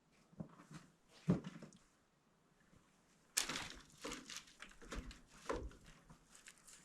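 Roofing panel being handled: a few light knocks, then from about three and a half seconds in a run of scraping and crinkling with many small clicks.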